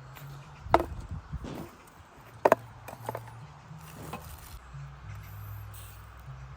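Two sharp knocks about two seconds apart, with a few lighter taps between and after, over a low steady hum.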